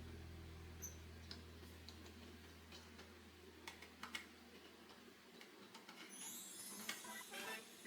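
Faint scattered clicks and ticks of a small screwdriver and loose screws working on a plastic drone body, a little busier near the end, under a low note that fades out over the first few seconds.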